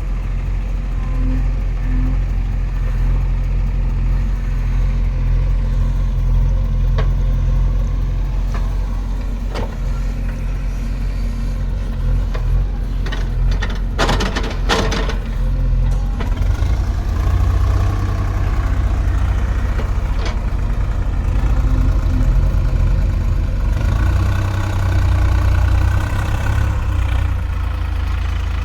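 Heavy diesel engine running steadily, its low note shifting to a different speed about halfway through, with a few short knocks just before.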